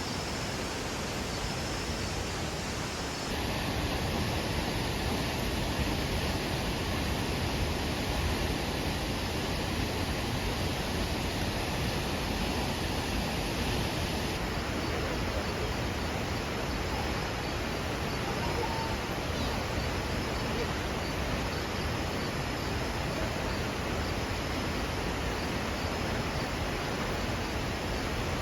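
Steady rushing noise of falling water, even and unbroken, with abrupt small shifts in its tone about three seconds in and again about fourteen seconds in.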